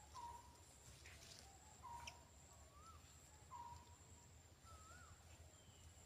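Faint bird calls: three short, clear whistled notes spaced less than two seconds apart, and two slurred whistles that rise and fall, over a steady high-pitched whine.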